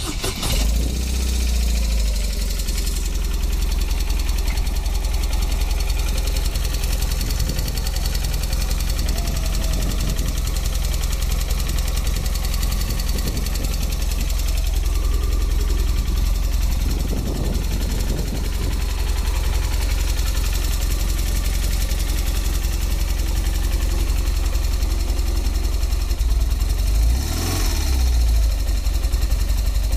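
BMW R1200S's air/oil-cooled boxer twin idling with a ticking noise, the fault the owner is showing. The note rises briefly near the end as the throttle is blipped.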